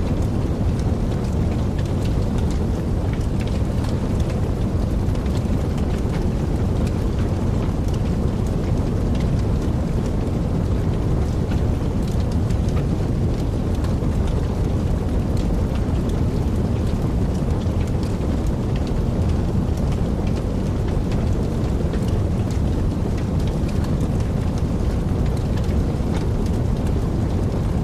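Wood fire burning in a fireplace: a steady low rumble of flame with many small crackles and pops scattered throughout.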